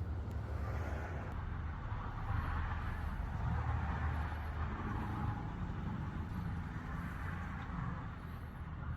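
Road vehicle noise: a steady low rumble that swells for several seconds in the middle and then eases, as traffic goes past. A few faint high chirps sit above it.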